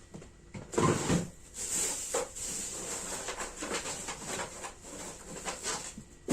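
Kitchen handling noises: irregular knocks, clicks and rustling as items are moved about.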